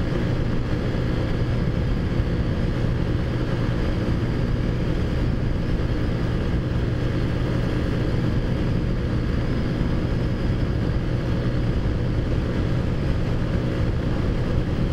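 Taotao Zummer scooter's 50cc four-stroke engine running at a steady pitch while cruising at about 45 mph, with a steady rush of road and wind noise.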